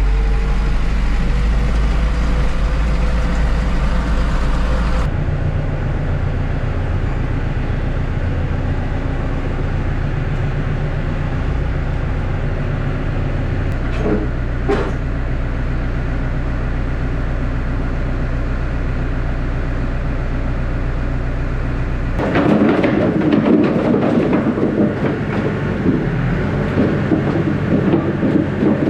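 Tractor engine running steadily while towing a trailer loaded with firewood; about three quarters of the way through, a louder rattling clatter starts up over it.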